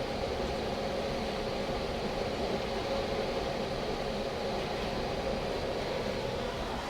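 Homemade wind turbine spinning in strong wind: a steady whine at one even pitch over a rush of wind noise.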